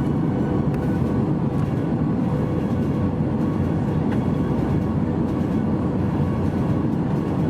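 Steady low roar of a passenger airliner's cabin in flight, engine and airflow noise heard from inside, with a faint steady hum.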